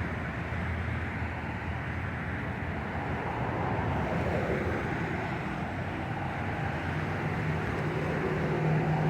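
Wind blowing, with a steady low hum of engine or traffic noise underneath and a falling pitch about halfway through, like a vehicle going by.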